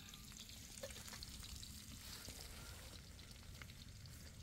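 Faint sizzling of food cooking over a wood fire on a fire-pit table, with scattered small crackles.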